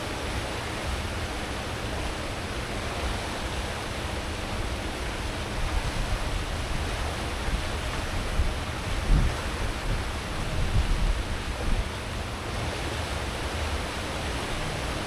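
Steady rushing churn of a cruise ship's wake and propeller wash behind the stern, over a deep engine rumble. A few louder low bumps come near the middle.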